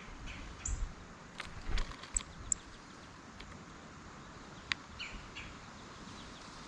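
Songbirds giving a few short, very high chips, mixed with a handful of sharp clicks and taps, over a faint outdoor hiss.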